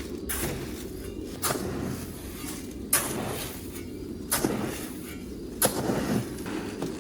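Pigeon loft ambience: a steady low rumble with four or five short rustling, clattering noises.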